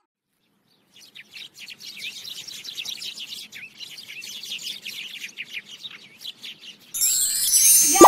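Small songbirds chirping in many quick, short calls, starting about a second in after a moment of silence. Near the end a sudden, louder sound cuts in over them.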